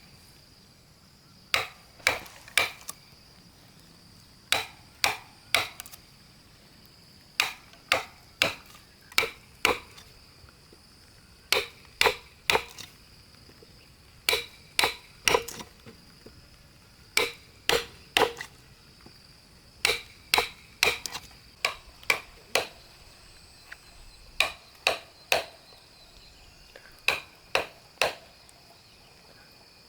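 Sharp blows struck on wood, coming in quick groups of two to four, a group every couple of seconds, as in hammering during woodworking.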